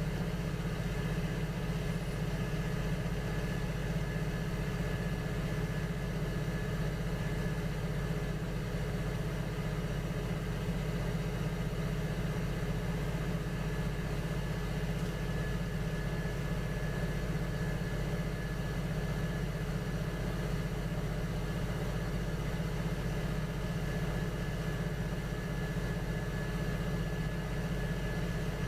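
Electric potter's wheel motor running at a steady speed, a constant hum with a faint whine over it.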